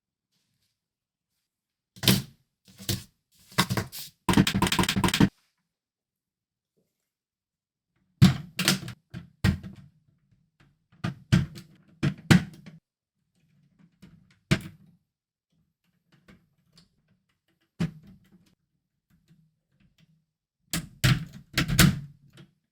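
Hard plastic Lego Technic parts knocking and clattering. Scattered single knocks come in small groups, with a rapid rattle lasting about a second around four seconds in and a quick cluster of knocks near the end.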